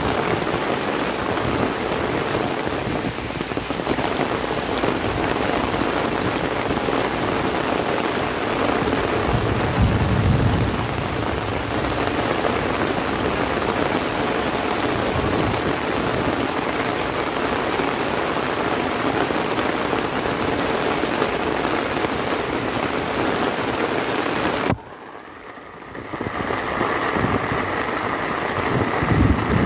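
Heavy rain falling steadily, with a brief low rumble about ten seconds in. Near the end the rain cuts off abruptly, and a quieter steady hum with faint tones comes in.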